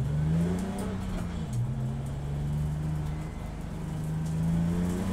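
Race car engine running, its revs rising, dropping back about a second and a half in, then climbing slowly near the end.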